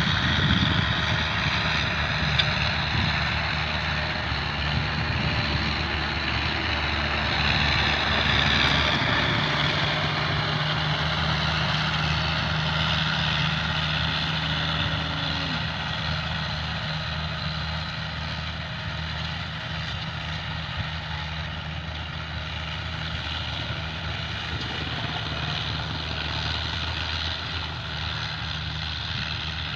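Tractor engine running steadily while driving a grass-cutting machine, with a higher whine that drifts slightly in pitch over the steady engine hum.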